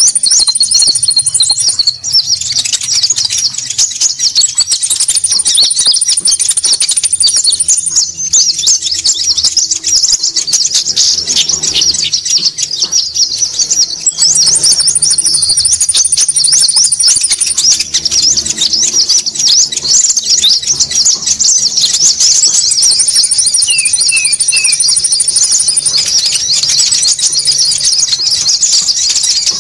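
Bird-lure recording of konin calls: many small birds chattering densely and continuously at a high pitch. A thin, very high trill comes in for a few seconds at a time, about every eight seconds.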